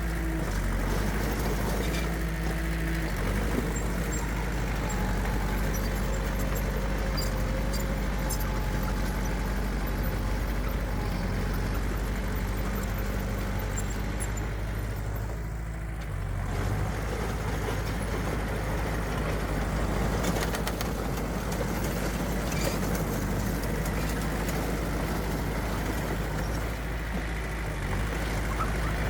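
Diesel engines of heavy earthmoving machines (dump truck and bulldozer) running steadily. The sound dips briefly about halfway through.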